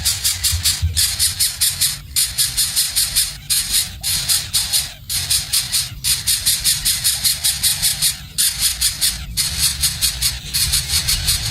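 Nestling birds begging with rapid, harsh high-pitched calls, about five or six a second, over a low steady hum.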